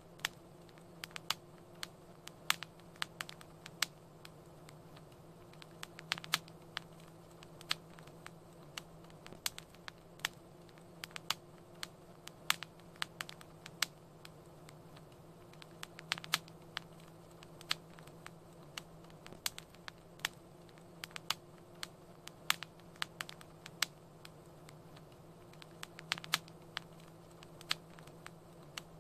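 Wood fire crackling in a fireplace: irregular sharp pops and snaps, sometimes several in a second, over a faint steady low hum and hiss.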